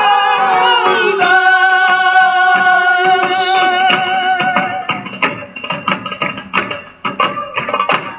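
Fado singing: a voice holds the last note of a line for several seconds, then gives way about five seconds in to an instrumental passage of plucked strings and percussion in a quick rhythm.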